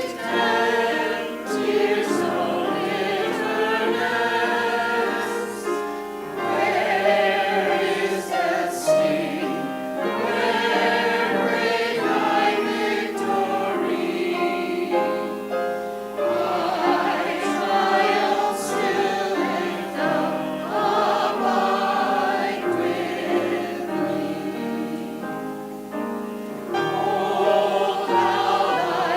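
Choir singing a sacred piece, many voices holding sustained notes that change steadily, without a break.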